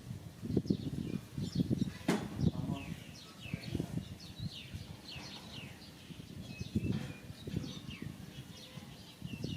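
Many short, high chirping calls, each falling in pitch, repeat throughout over irregular low rustling and knocking.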